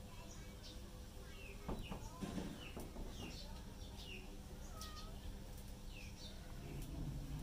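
Birds chirping in the background: short, falling chirps, about two a second. A couple of soft knocks come about two seconds in.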